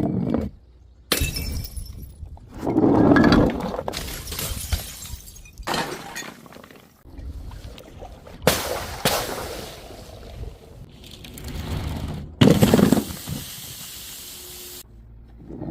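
Glass bottles shattering one after another. There are several separate crashes, each a sudden smash followed by tinkling shards.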